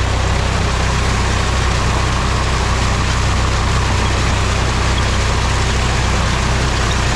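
Mahindra tractor's diesel engine running steadily at an even speed, a constant low drone with a broad hiss over it.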